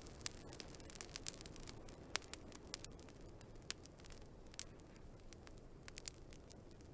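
Wood fire crackling: irregular sharp pops and snaps, a few every second, over a soft steady rush from the burning logs.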